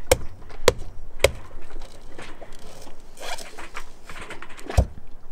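A young green coconut being struck to crack it open: sharp knocks, three in quick succession, then a pause and one more loud knock near the end.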